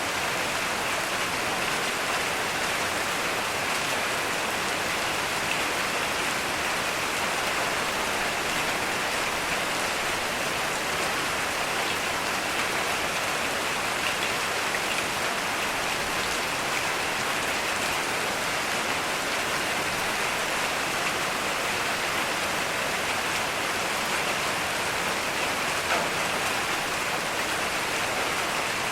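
Heavy rain falling steadily, with a few louder single drops standing out, one near the end.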